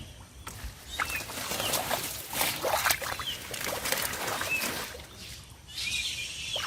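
Short bursts of splashing and rustling in water and plants, the sound of hands working through floating vegetation. A small bird chirps several times over it.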